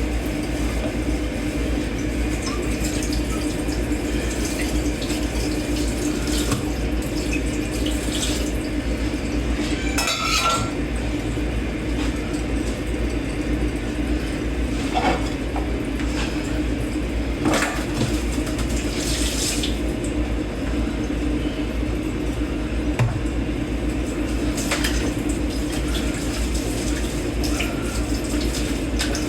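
Dishes being washed by hand in a kitchen sink: water runs steadily while plates and cutlery knock and clink against each other every few seconds.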